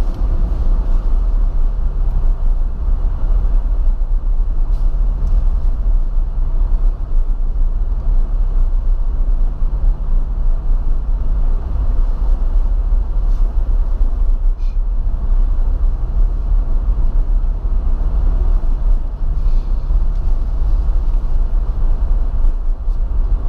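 Car driving at low speed, heard from inside the cabin: a steady low rumble of engine and road noise, with an engine hum that fades out around twelve seconds in and comes back a few seconds later.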